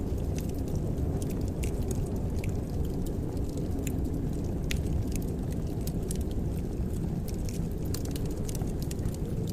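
Wood fire crackling, with sharp pops at irregular moments over a steady low rumble.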